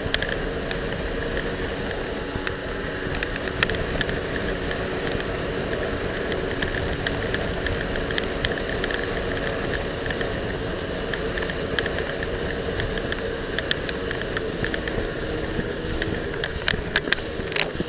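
Jet ski engine running steadily under way, under a rush of wind and water. Scattered sharp clicks and knocks come from the action camera rattling on the life vest it is loosely attached to, thickening near the end.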